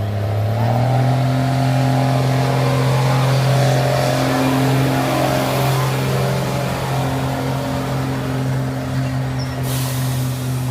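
1997 Dodge Ram 2500's 12-valve Cummins inline-six diesel running hard under load while pulling the sled. Its pitch rises about a second in and then holds steady.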